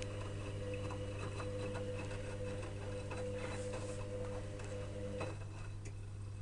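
Electrolux EWS 1045 washing machine's drum motor running with a steady whine over soft tumbling clicks, cutting off abruptly about five seconds in; after that only light ticks are left.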